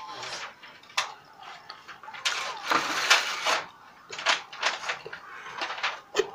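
Close-up eating sounds of pork ribs eaten by hand: chewing and mouth smacks heard as a run of sharp clicks, with a louder, noisier stretch of chewing from about two to three and a half seconds in.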